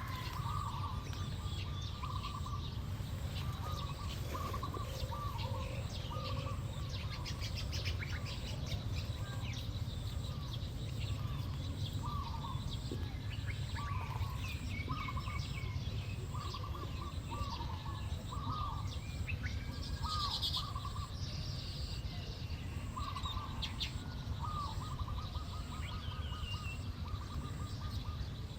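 Small birds calling: a short mid-pitched note repeated over and over at irregular intervals, with scattered higher chirps and a steady low rumble underneath.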